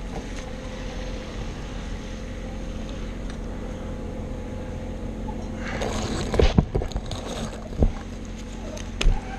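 A steady low engine hum, with a burst of scraping and several sharp knocks in the second half, the loudest about six and a half and nine seconds in.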